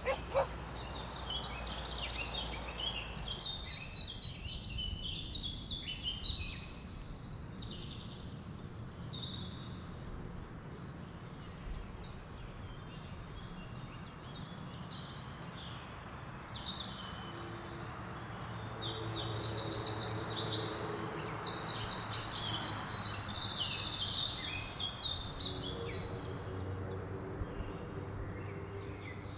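Wild birds singing and chirping, several short high calls overlapping, with a louder run of fast repeated high notes about two-thirds of the way through.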